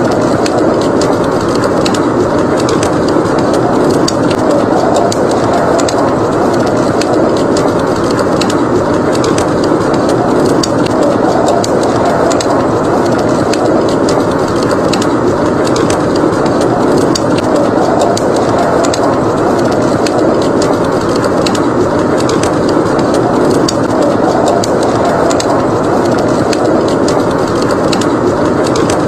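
Fireplace ambience: wood fire crackling with frequent small pops over a steady roar of blizzard wind.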